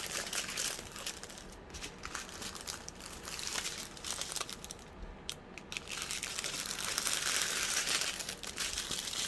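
Small plastic bags of diamond painting drills crinkling and rustling as they are handled, with many small crackles, a little louder in the second half.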